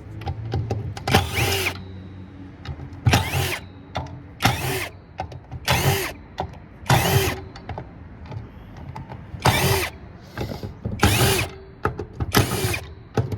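Handheld power drill run in about eight short bursts, each spinning up and winding down again, as screws are backed out of a circuit board.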